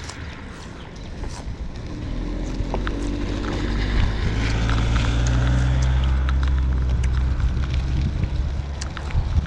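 A motor vehicle's engine running close by, coming in about two seconds in, holding loud and steady for several seconds, then easing slightly near the end, with light rattling clicks throughout.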